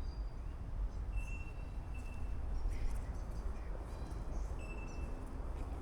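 Outdoor garden ambience with a steady low rumble, and a bird calling in short, high, level notes three times.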